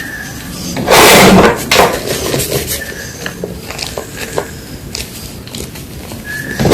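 A block of gym chalk being crunched: a loud, dry crunch about a second in and another right at the end, with small crumbling crackles and clicks in between.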